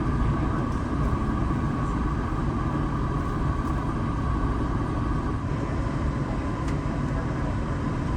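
Steady cabin rumble inside an Airbus A380 after landing, the low drone of the engines and air-conditioning running evenly with a faint higher hum above it.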